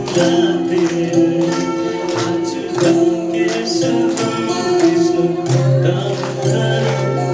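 Live music: a melody of sustained notes with singing, over a steady beat of jingling percussion.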